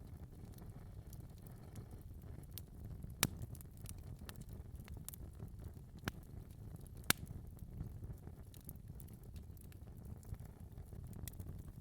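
Fire crackling in a fireplace: a low steady rumble under scattered sharp pops, the loudest about three and seven seconds in.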